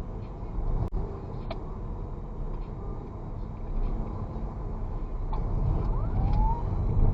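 Vehicle driving at night: low engine and road rumble with wind noise, a couple of sharp clicks about a second in, and a few short gliding tones near the end.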